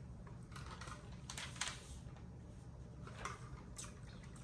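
A person chewing a chili cheese dog: soft, wet mouth sounds in a few short bursts over a low steady room hum.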